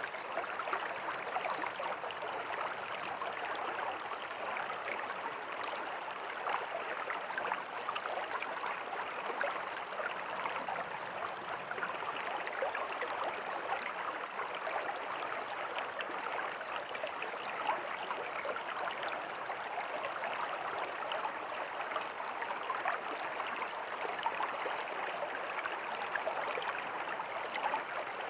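A small creek running over rocks with a tiny waterfall, a steady splashing and gurgling rush of water that stays even throughout.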